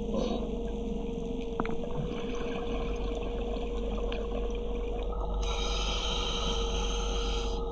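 Underwater sound of a scuba diver breathing through a regulator, with a loud rush of exhaled bubbles in the last two seconds. A steady hum runs underneath.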